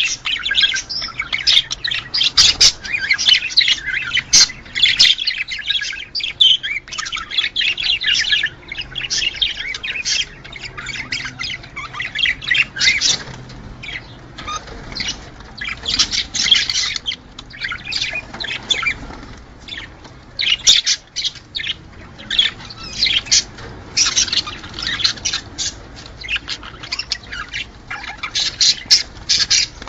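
Budgerigars chattering, warbling and squawking, with many chirps overlapping in a continuous, busy stream and louder sharp calls every second or so.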